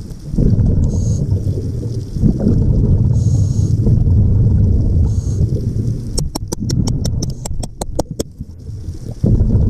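A scuba diver's regulator underwater: short hissing inhales alternating with longer rumbling gushes of exhaled bubbles, repeated about every two seconds. A quick run of sharp clicks sounds for a couple of seconds past the middle.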